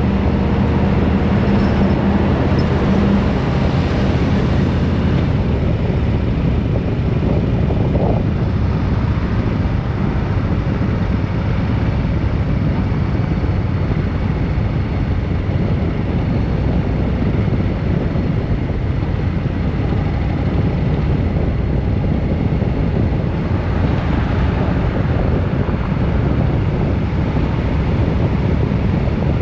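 A road vehicle under way: steady engine and road noise, with an engine tone standing out for the first few seconds.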